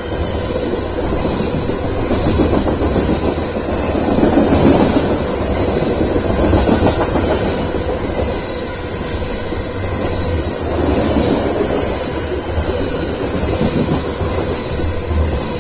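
BNSF freight train of covered hopper cars passing close by at speed: a continuous rumble of steel wheels on the rails that swells and eases as the cars go by.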